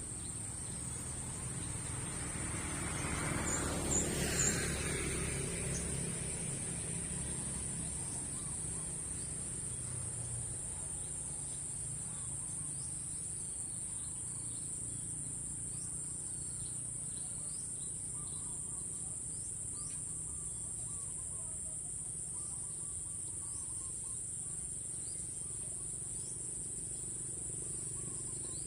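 Rural outdoor ambience: a steady high-pitched insect drone, with a passing vehicle that swells and fades about four seconds in, and faint bird chirps in the second half.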